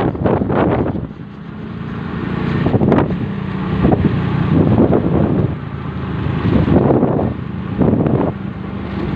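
Wind buffeting the microphone in irregular gusts, with a steady low engine hum underneath from about a second in.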